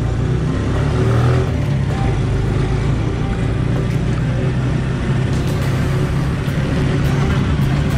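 Engine of a motorcycle tricycle (motorcycle with sidecar) running steadily while under way.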